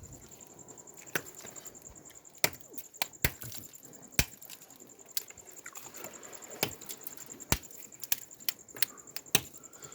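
Scattered sharp cracks and clicks at irregular intervals, about one a second, over a faint steady high-pitched whine.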